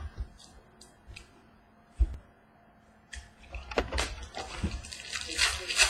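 Trading cards and a card pack being handled: a soft thump about two seconds in, then irregular rustling and sliding of cards and pack wrapper from near the middle onward.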